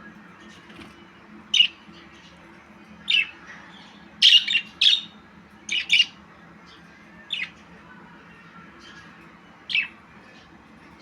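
Budgerigar giving short, sharp chirps and squawks at irregular intervals, several in quick succession around the middle, over a faint steady low hum.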